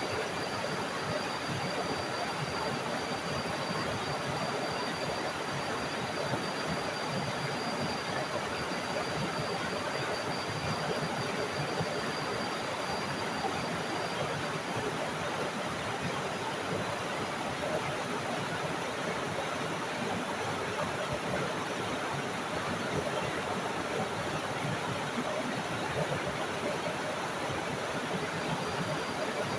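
Small forest waterfall splashing in a steady, even rush of water. A thin, steady high tone sounds over it, fading out midway and returning near the end.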